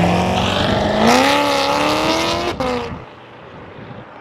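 A car engine revving: it runs steadily, then climbs in pitch from about a second in and cuts off sharply at about two and a half seconds, leaving quieter background noise.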